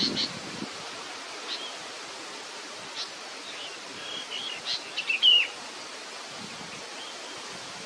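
Small bird chirping: a few short, high chirps early on, then a quick run of chirps and downward-slurred calls about four to five seconds in, over a steady background hiss.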